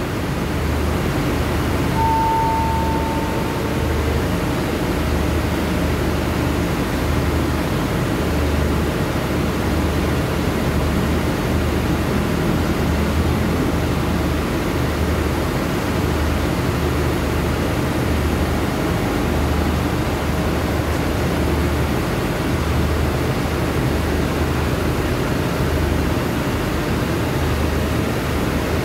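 Steady hum of a diesel-hauled express passenger train standing at the platform, its engines and coach air conditioning running, with a low throbbing pulse. A short high tone sounds once, about two seconds in.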